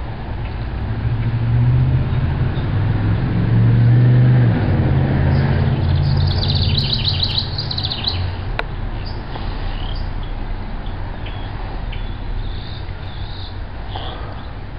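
A passing vehicle's low engine hum builds, peaks and fades away. Partway through, a small songbird gives a quick run of high chirping notes, with a few short chirps near the end.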